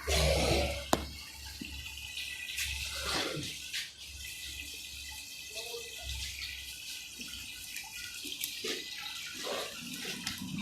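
Running water, a steady hiss, with a sharp click about a second in and a few softer knocks.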